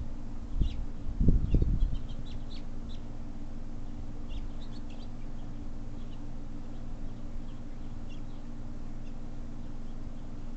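Small birds chirping, short high calls scattered through, busiest in the first half. About a second in comes a brief, louder low noise, and a steady low hum runs underneath.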